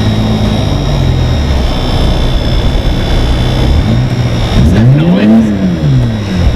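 1987 BMW 325i's 2.5-litre straight-six engine running under load, then revving up and dropping back about five seconds in. The clutch is worn and slipping badly.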